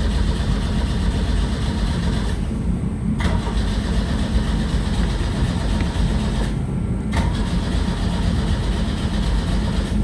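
Pontiac Fiero's starter cranking the engine over steadily in long turns with two short letups, the engine not catching. The owner bets the distributor cap and rotor were not put back on right.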